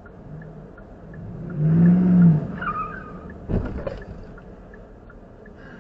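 Road traffic: a vehicle engine's pitch rises and falls as it goes past about two seconds in, a brief tyre squeal follows, and a sharp thump sounds about halfway through.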